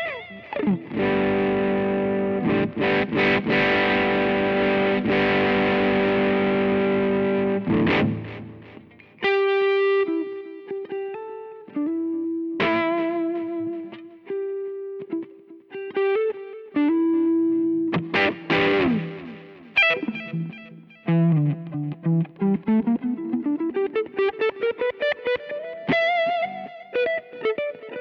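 Electric guitar played through a BOSS OD-2R overdrive pedal, with a distorted sound. A chord rings for about seven seconds, then come single-note lines with vibrato, and near the end a long slide up in pitch.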